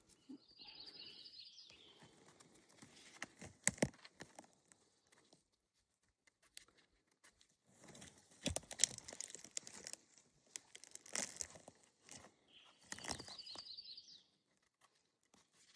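Rustling and crackling in dry forest-floor litter, in several separate spells. A small bird sings a short, fast, high trill twice, near the start and again near the end.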